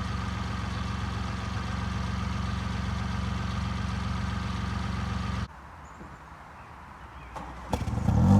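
A 2018 Mini Cooper's 1.5-litre three-cylinder engine idling steadily through its stock exhaust, cutting off abruptly about five and a half seconds in. A few sharp clicks and a louder rising sound follow near the end.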